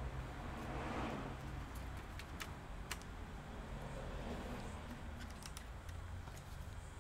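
Scattered light clicks and taps of laptop parts and small tools being handled during reassembly, bunched about two seconds in and again near the end, over a steady low hum.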